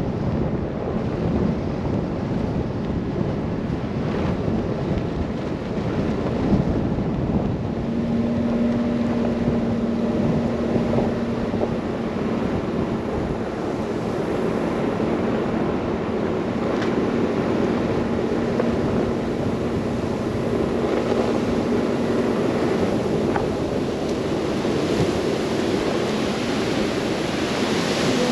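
Steady rushing noise of wind and a car driving through a snow blizzard. A faint low hum runs under it for much of the middle.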